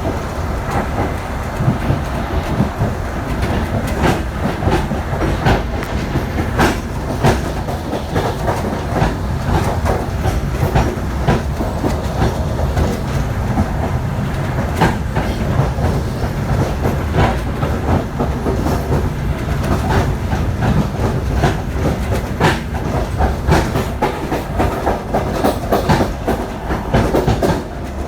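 Passenger train wagons running on the track: a steady low rumble with many irregular clicks and knocks of the wheels passing over rail joints.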